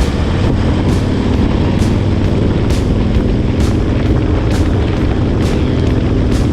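Harley-Davidson Street Glide's V-twin engine running steadily under way, with music that has a steady beat, ticks about twice a second.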